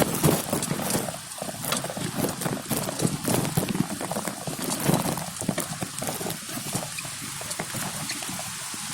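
Horse hooves clopping along a trail in an uneven stream of knocks, over a steady rustling hiss.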